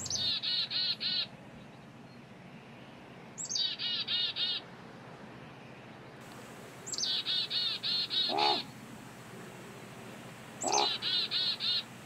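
A songbird singing the same short phrase four times, evenly spaced: a high downward sweep followed by a quick run of about six chirping notes. A lower call sounds under it twice in the second half.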